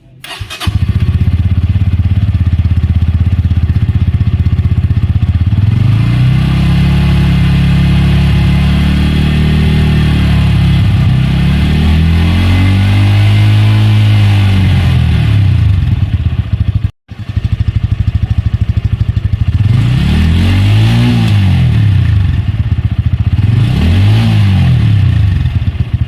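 Bajaj Pulsar N150's single-cylinder engine starting and idling, then revved on the throttle through its exhaust: two slow rises and falls in pitch, then two quick, sharp blips near the end.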